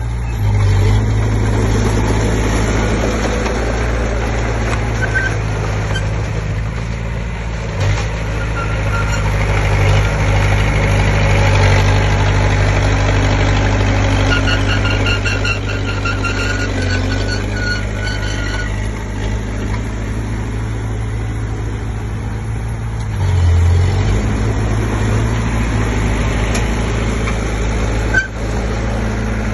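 Komatsu D20P bulldozer's diesel engine running steadily, with a faint high squeak for a few seconds around the middle and a brief rise in loudness near the end.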